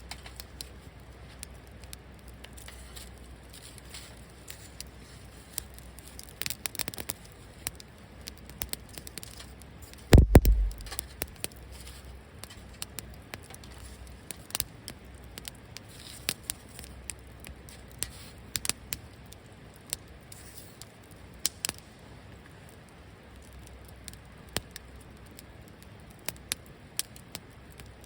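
Wood fire crackling, with sharp pops scattered irregularly throughout and a brief flurry of them about six or seven seconds in. About ten seconds in comes a single loud low thump, the loudest sound here.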